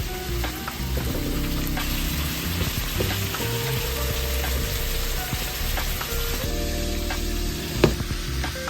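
Bulgogi sizzling as it fries in a pan, a steady hiss broken by occasional clicks, with a sharper click near the end. Background music with held notes plays underneath.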